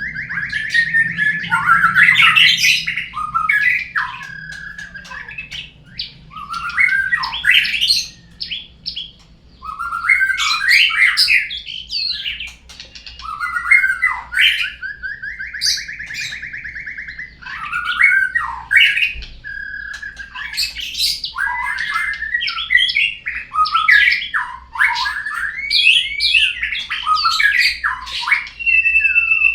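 Murai song played as a lure sound to get caged birds singing. Repeated phrases come every three to four seconds, each a buzzy trill followed by quick whistles and chattering notes.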